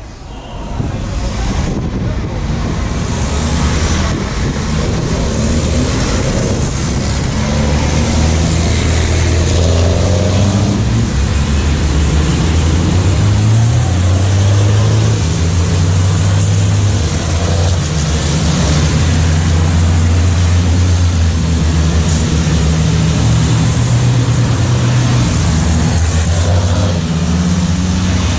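Racing trucks' diesel engines running together, a loud low drone that shifts up and down in pitch, over a steady hiss; it fades in over the first second.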